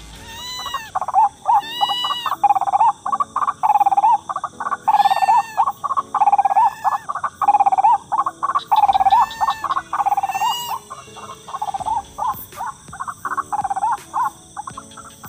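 White-breasted waterhen (ruak-ruak) calls: a fast, repeated chorus of croaking notes with rising-and-falling whoops. The calls are dense for most of the stretch and thin out toward the end.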